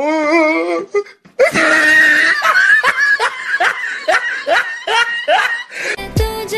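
A person laughing over music: a wavy laugh, a short pause, then a long run of repeated rising laughs. Near the end, a song with a deep bass line comes in.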